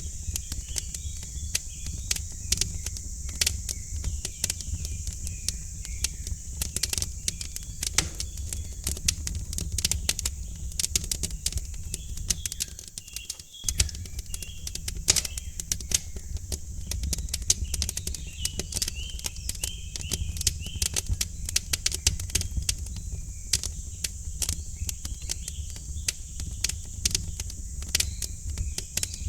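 Wood fire crackling in a fireplace, with frequent irregular pops and snaps over a low steady rumble, while small birds chirp faintly in the background. The low rumble drops out briefly about halfway through.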